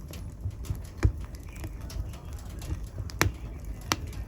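Wood fire burning in a fireplace, crackling continuously over a low rumble, with three sharp pops at about one, three and four seconds in.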